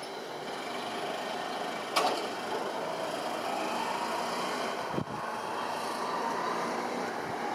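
Jet engines of a Fuji Dream Airlines Embraer regional jet running: a steady rushing noise with a faint whine. A sharp click about two seconds in and a thump about five seconds in.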